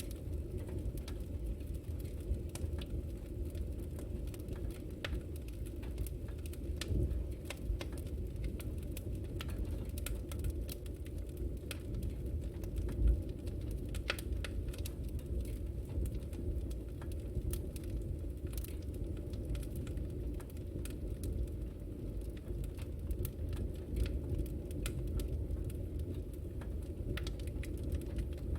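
Fireplace fire crackling: a steady low rumble of the flames with frequent small, sharp crackles and pops, and one louder pop about thirteen seconds in.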